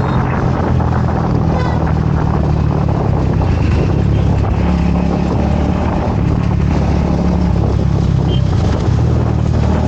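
Vehicle engine running steadily on the move, with road and wind noise.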